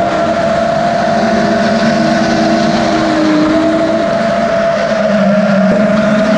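Drift cars' engines held at high revs during a run, several engine notes sounding at once and staying steady; one of them drops away about four seconds in.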